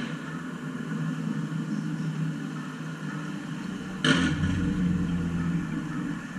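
Steady low vehicle-like hum, with a sudden louder noisy rumble starting about four seconds in and easing off after a second or two.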